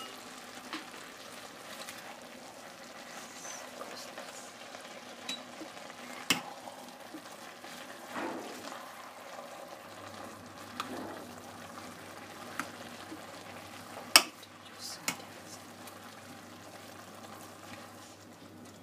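Chopped watercress with onion and tomato frying in oil in a stainless steel pot, a steady sizzle as it is stirred with a spoon. A few sharp clinks of the spoon against the pot, the loudest about fourteen seconds in.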